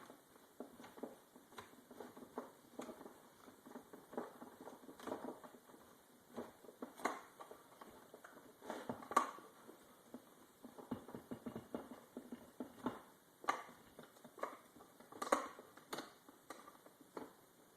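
Irregular small clicks, taps and rattles of hand tools and chainsaw parts being handled and fitted during reassembly, with a few louder knocks.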